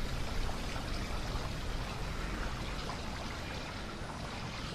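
Steady rushing background noise, like running water, with no distinct events.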